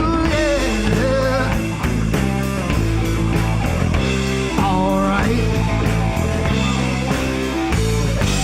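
Rock band playing live: a wavering, bending lead line near the start and again about five seconds in, over sustained bass notes and a steady drum beat.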